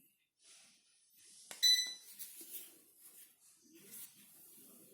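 An electric fireplace's control unit gives a single short high beep, with a click just before it, about a second and a half in, as a button press on it or its remote registers. Light handling rustle surrounds it.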